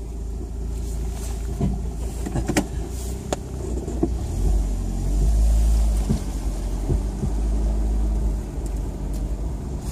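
A motor vehicle's engine running at low speed with a steady low rumble that grows louder about four and a half seconds in. A few clicks and knocks sound over it.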